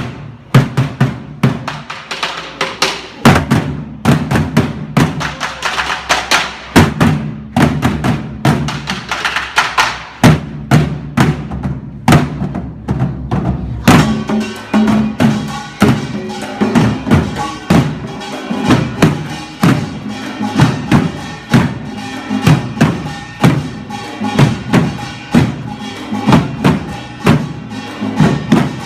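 Korean buk barrel drums played together in a pungmul drum-dance rhythm, dense rolls giving way to a steadier, evenly spaced beat about halfway through.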